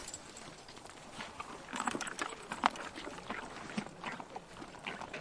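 Horse sound effect: an irregular scatter of short clicks and knocks, busiest about two seconds in.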